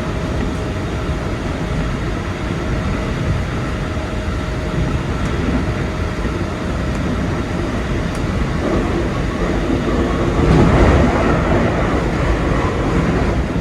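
Keikyu 2100-series electric train running on the line: steady rail and running noise, growing louder from about ten seconds in.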